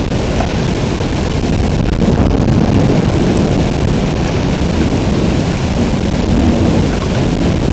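Heavy rain pouring steadily in a thunderstorm, with a deep rumble of thunder under it that swells slightly a couple of times.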